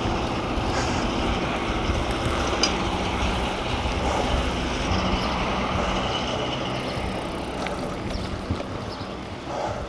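Wind noise over the microphone and rolling road noise from a bicycle being ridden, growing quieter over the last few seconds.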